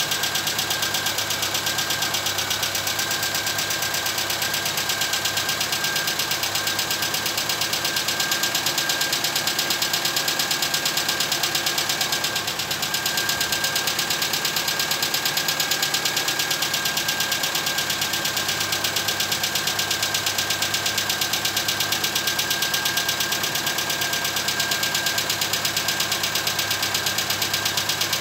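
Freshly rebuilt Chevrolet Cruze engine idling steadily on one of its first runs after the rebuild, with a light, rapid ticking from the hydraulic lifters that the mechanic expects to stop once they pump up with oil.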